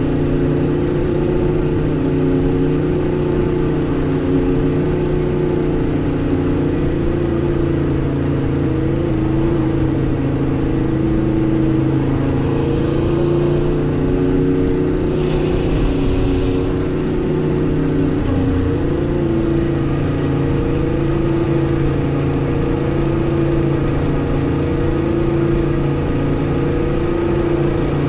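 Aprilia RSV4 RR's V4 engine on stock exhaust running at a fairly steady engine speed while riding, its pitch wavering only slightly. A brief hiss comes in twice around the middle.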